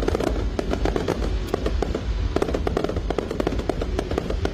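Fireworks going off in rapid, irregular succession: a dense run of crackles and bangs with no break, with music playing underneath.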